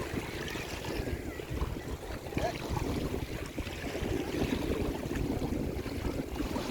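Outdoor wind rumbling on the microphone over the sound of moving water.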